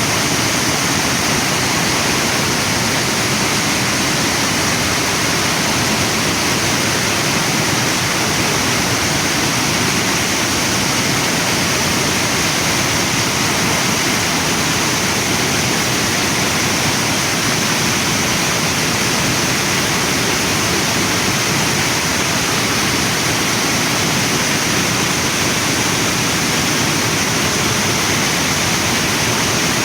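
Waterfall and river water rushing, a steady unbroken noise of falling and flowing water.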